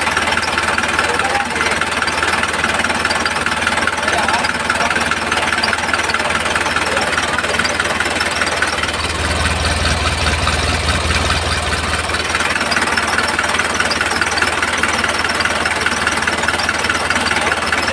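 Small electric motor and gearbox of a homemade toy tractor running, with a steady rattling buzz that grows heavier and lower for a few seconds in the middle.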